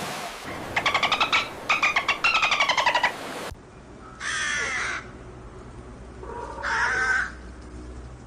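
Crow calling: two quick runs of rapid rattling calls, then two single harsh caws a couple of seconds apart.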